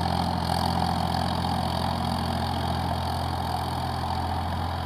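Farmtrac 60 PowerMaxx tractor's diesel engine running steadily while the tractor works an 8×8 harrow.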